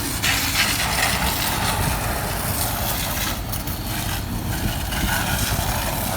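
A construction machine's diesel engine running steadily, with a hiss of water spray over it as the machine is hosed down.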